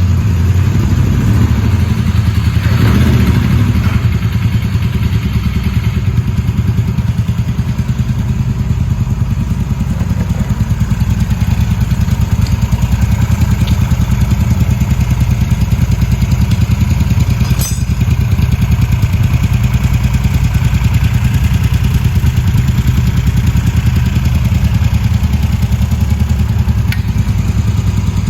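Motorcycle engine running steadily at idle, with a fast even pulse throughout.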